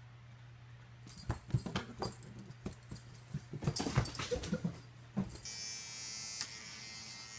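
A dog's short sounds among scattered knocks and thumps, then a steady electric buzz from about five and a half seconds in.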